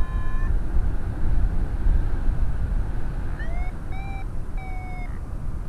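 Wind rumbling on a GoPro Hero5's built-in microphone, a steady low noise. A short steady tone stops about half a second in, and three short pitched notes sound around the middle.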